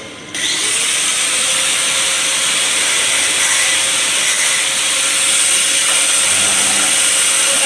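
A steady, loud hiss that starts abruptly just after the beginning and holds evenly, with a faint steady tone beneath it.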